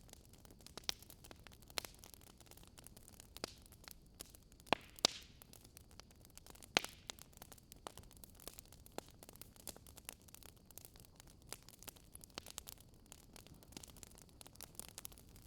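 Wood fire crackling: irregular sharp pops and snaps, a few of them louder, over a faint steady hiss.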